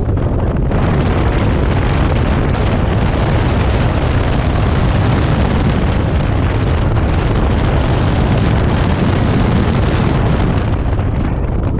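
Honda S2000 CR's 2.2-litre four-cylinder engine running hard and revving high through an autocross run, heard from inside the car under loud, rumbling wind and road noise on the microphone. It eases slightly near the end as the car comes off the throttle.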